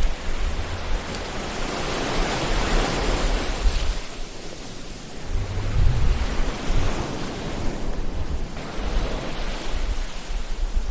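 Ocean surf: waves breaking and washing in, swelling and falling back every few seconds over a low rumble.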